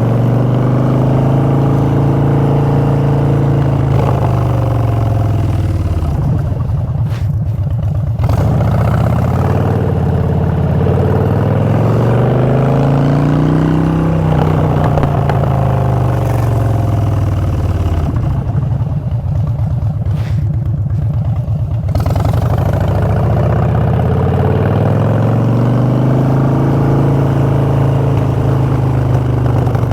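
Harley-Davidson Street Bob's Twin Cam 103 V-twin running through short Vance & Hines Short Shots exhaust pipes while riding. It pulls up in pitch and drops back several times as the rider accelerates and rolls off the throttle, with two longer low stretches of rumbling deceleration about a third and two thirds of the way through.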